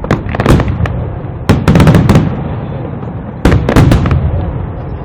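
Aerial fireworks bursting in quick clusters of sharp bangs, three volleys about a second and a half apart, each trailing off in a rumbling echo.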